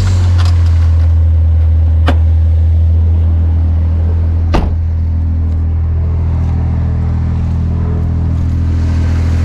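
Mitsubishi Minicab's 660cc three-cylinder 3G83 engine idling steadily. A few clicks and one sharper knock about four and a half seconds in come from the seat over the engine being handled and closed.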